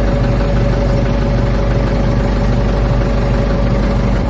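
Ford 755 backhoe's engine running steadily at idle, with a steady tone sitting above the engine's low note.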